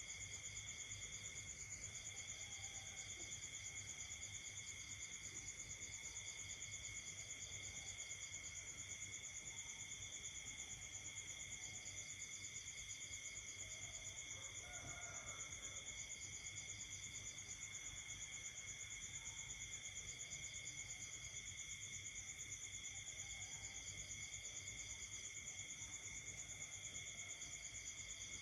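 Night chorus of insects trilling continuously at several high pitches, with one pulsed trill starting and stopping in bouts of a few seconds. A faint lower call comes in briefly about halfway through.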